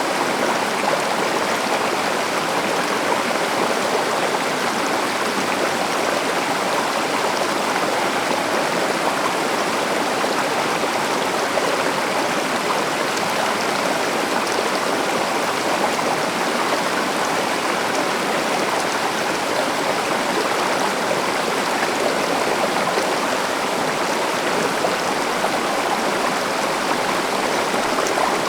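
A river or stream rushing steadily over rocks, an even unbroken wash of flowing water.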